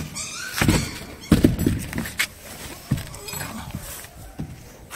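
A few irregular knocks and thumps, as of things being moved and handled, the loudest about a second and a half in.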